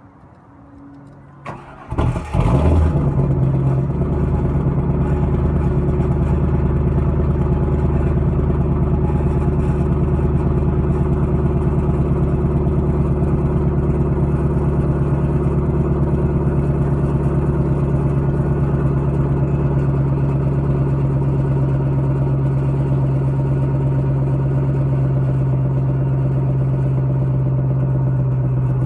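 2000 Chevrolet Camaro Z28's 5.7-litre LS1 V8, through a Flowmaster cat-back exhaust, cranking and catching about two seconds in with a brief rev flare, then settling into a steady idle. The exhaust rattles because the Flowmaster muffler has fallen apart inside.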